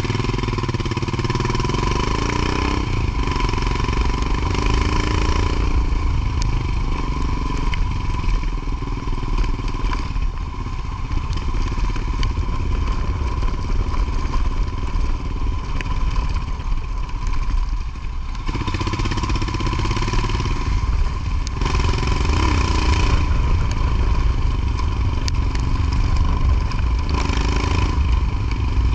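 Motorcycle engine running under way, its note rising and falling several times with the throttle, over a heavy steady low rumble.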